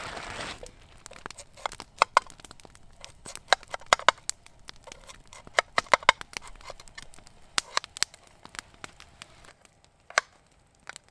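Campfire crackling, with irregular sharp cracks and snaps, some coming in quick clusters.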